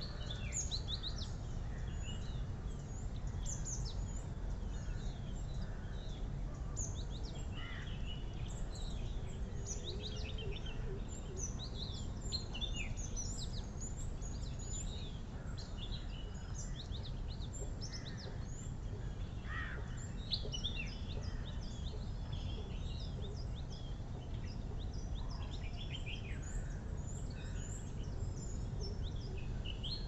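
Small birds chirping and calling, many short high chirps scattered throughout, over a steady low rumble of wind on the microphone.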